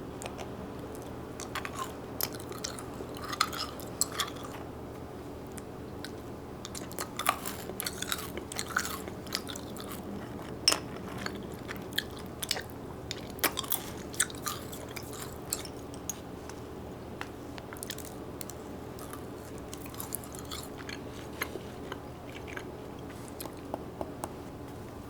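Someone chewing and biting into crunchy food: irregular crunches, denser in the first half, over a steady low hum.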